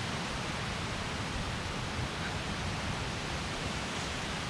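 Steady rushing of fast-flowing, flood-swollen stream water.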